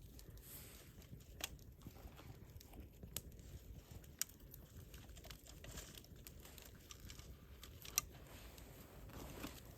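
Wood campfire burning, crackling faintly with a few sharp pops, the loudest about eight seconds in.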